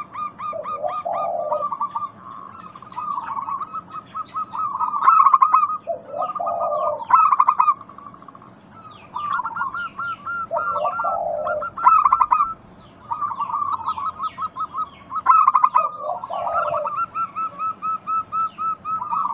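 Zebra doves (perkutut) calling: rapid, trilled cooing notes with lower coo phrases that repeat about every four to five seconds. It is a looped lure recording meant to set caged doves singing.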